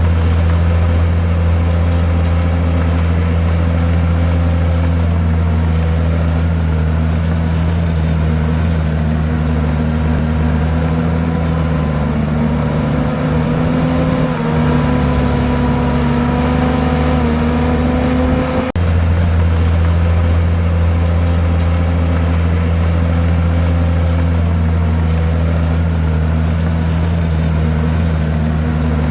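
Komatsu bulldozer's diesel engine running with a deep, steady hum. Its pitch wavers and shifts for several seconds under load a little before halfway. It breaks off suddenly about two-thirds of the way through, then returns to the steady hum.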